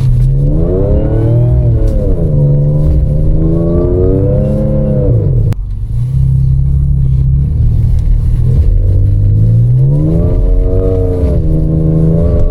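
Supercharged V6 of an Audi B8.5 S5 with a resonator-delete exhaust, revving hard under acceleration. The pitch climbs and falls through the first half, drops off suddenly about five and a half seconds in, then climbs again near the end.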